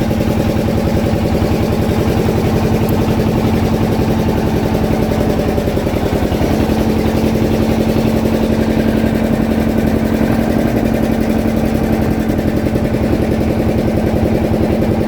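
A small fishing boat's engine running steadily at a constant speed, with a fast, even beat and a steady hum.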